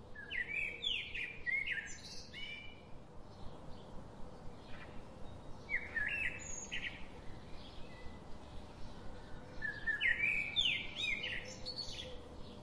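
Songbird singing: three short bursts of quick chirping phrases, a few seconds apart.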